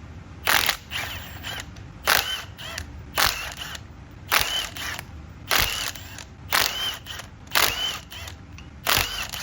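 Hammer blows on steel axle parts, about one a second, eight in all, each strike ringing briefly.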